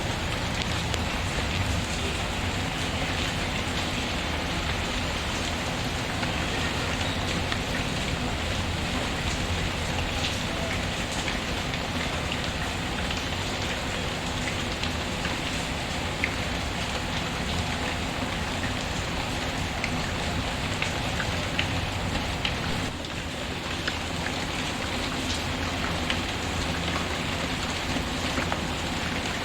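Steady, heavy rain falling on a surface, with scattered small pops and crackles from a wood fireplace mixed in.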